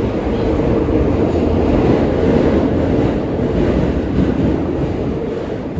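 R143 subway train running along the track: a steady loud rumble of wheels and car noise that swells a little mid-way.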